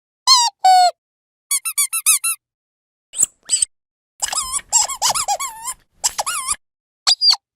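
Squeaky dog toy being squeezed repeatedly: short pitched squeaks in quick clusters with gaps of silence between them, and a longer, busier run of squeaks about four to six seconds in.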